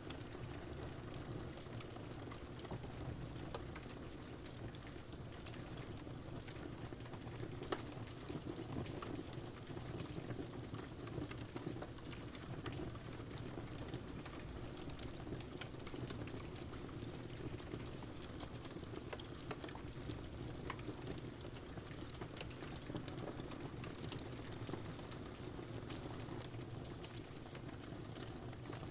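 Wood fire crackling, with scattered sharp pops and one louder pop about eight seconds in, over a steady hiss of rain.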